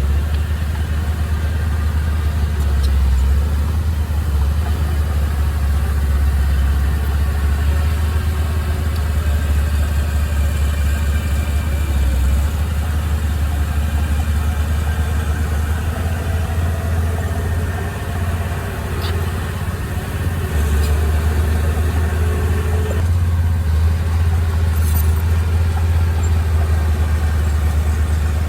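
Heavy diesel machinery engine running steadily with a deep low drone that eases slightly for a couple of seconds about two-thirds of the way through.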